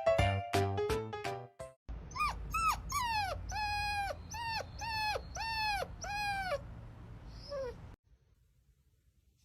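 Brief piano-like music, then an animal, likely a pet, gives a run of about nine short whining calls about half a second apart, each dropping in pitch at its end. The calls fade out and one last faint call follows.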